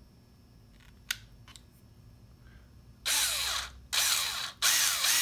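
Electric drill with a 1/8-inch bit boring a hole into the centre of a short piece of hot glue stick. A faint click about a second in, then the drill runs in three short bursts starting about three seconds in, the last one continuing steadily.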